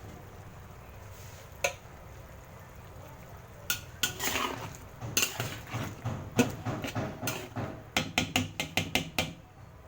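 Cookware and metal utensils clattering: a single click a little over a second in, then from about the middle a run of knocks and scrapes, ending in a quick series of sharp taps near the end.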